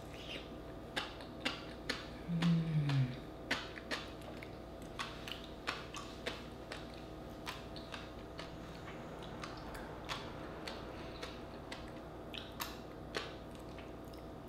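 Close-miked mouth sounds of chewing a raw oyster topped with fish roe: many small wet clicks and pops throughout. About two seconds in, a short hummed 'mmm' falling in pitch.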